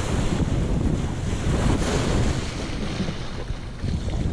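Wind buffeting the microphone over the wash of small waves.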